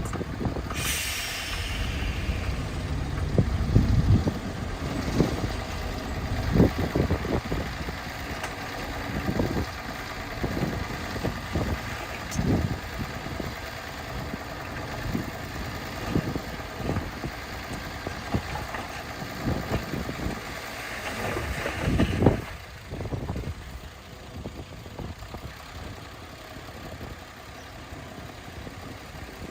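Diesel engines of heavy earthmoving machinery running and working, with frequent clanks and knocks. A brief hiss comes about a second in, and the sound grows quieter after about 22 seconds.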